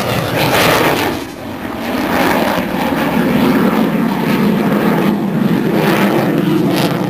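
Aircraft engine noise as a plane flies past, loud throughout, dipping briefly about a second in and then holding steady.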